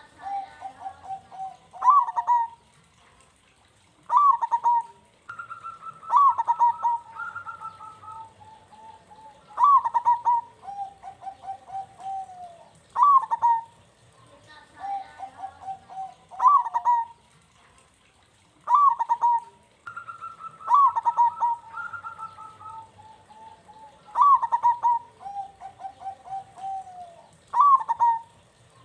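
Zebra doves (perkutut) cooing in repeated phrases every two to three seconds. Each phrase is a loud opening note followed by a rapid run of softer notes. A second, higher-pitched run overlaps a few of the phrases.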